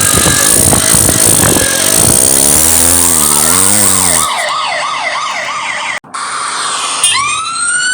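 Cartoon vehicle sound effects: a loud, noisy engine-like rush with wobbling low tones, then a police siren yelping rapidly from about three seconds in. The sound cuts out for a moment near six seconds, and a siren wail starts rising near the end.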